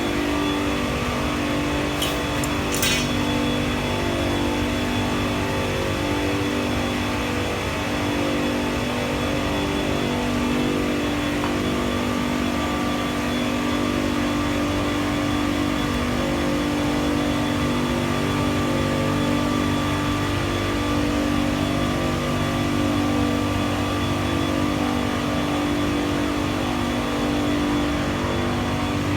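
Water-cooled Trane 60 HP chiller running: a steady machine hum made of several held tones that waver slightly. Two brief sharp clicks about two and three seconds in.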